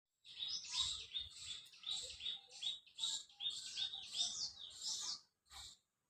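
Birds chirping: a quick, busy run of short, high chirps and gliding notes that stops about five seconds in.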